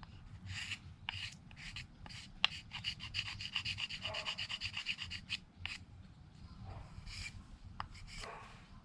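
A Mora knife's blade scraping along a stick of wood, carving a feather stick: single strokes about every half second, a fast run of short scrapes in the middle, then a few more strokes.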